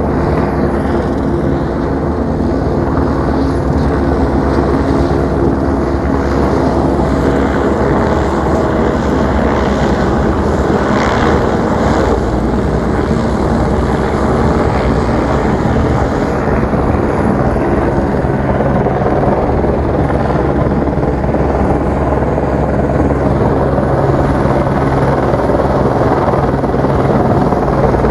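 Helicopter hovering and circling low overhead: a loud, steady chop of the rotor blades over the engine's hum.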